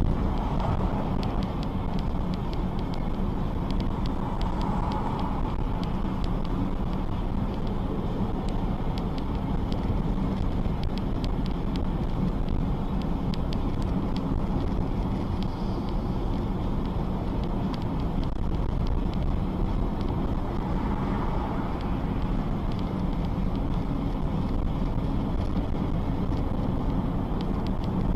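Steady road and engine noise of a car driving, with no crash or sudden impact.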